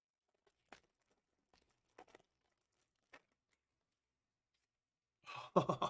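A few faint, scattered clicks and rustles of trading cards being handled, then a person starts laughing near the end.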